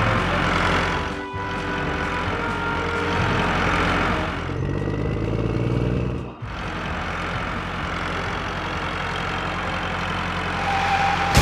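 Tractor engine sound effect running steadily, over light background music; it drops out briefly twice.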